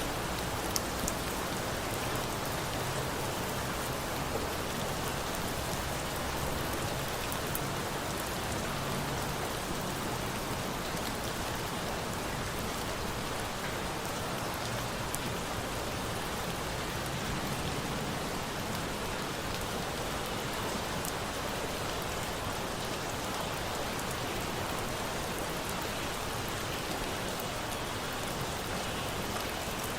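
Steady rain falling, an even hiss of drops on a surface, with a few faint sharp ticks here and there.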